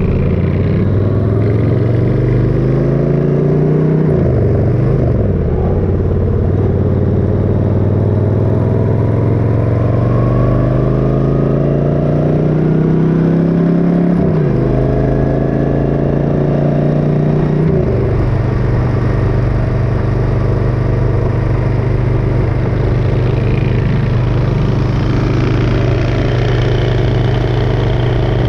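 Motorcycle engine pulling hard through the gears: its pitch climbs, drops sharply at upshifts about 4 s and 14 s in and again near 18 s, then holds steady at cruising speed.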